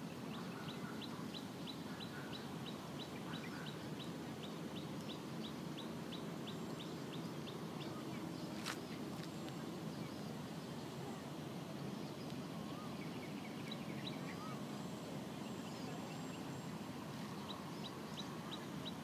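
A bird calling in a fast series of short high chirps, about four a second, which stops after about seven seconds and starts again near the end, over steady low outdoor background noise. A single sharp click comes a little before the nine-second mark.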